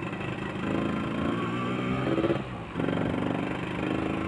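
Yamaha RX-King's 135cc two-stroke single-cylinder engine pulling away and revving up, with a brief dip about two and a half seconds in before it picks up again.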